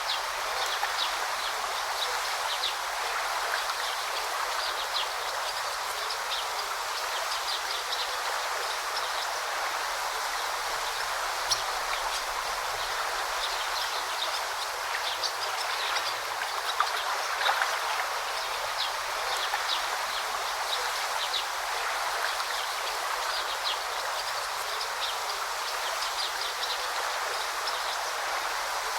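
River flowing and babbling steadily, with short high-pitched bird chirps scattered through it.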